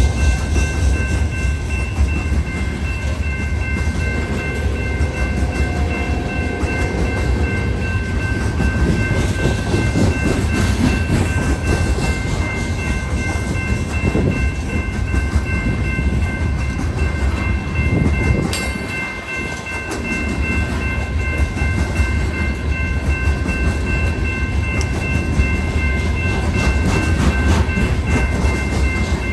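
BNSF coal train's cars rolling past: a steady heavy rumble with clickety-clack, and high thin tones held steady over it. The rumble dips briefly about two-thirds of the way through, then returns.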